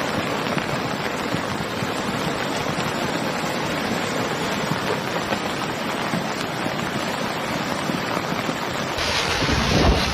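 Floodwater rushing in a steady, dense torrent. About nine seconds in the sound cuts abruptly to a different, hissier noise with a low thump near the end.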